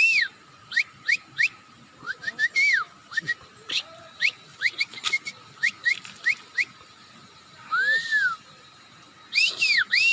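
A person imitating bird calls by whistling: a quick, uneven run of short high chirps, each a brief upward or arched slide, with one longer arching whistle about eight seconds in and a fast cluster of arched chirps near the end.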